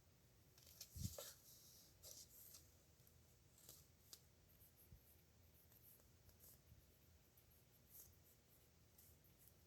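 Faint scratching of a dip nib pen on paper in short, scattered strokes, with a soft knock about a second in.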